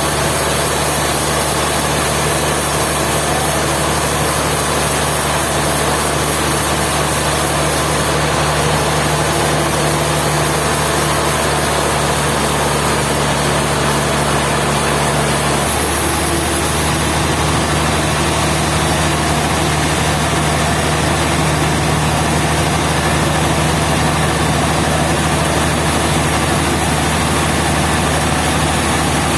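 Sawmill engine running steadily, with a small change in its tone about halfway through.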